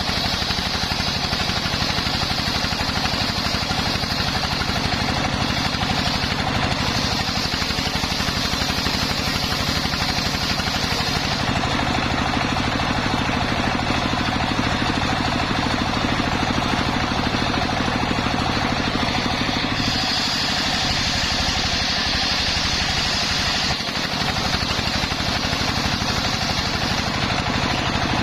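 Engine of a homemade circular sawmill running steadily, with a high whine that shifts in level several times.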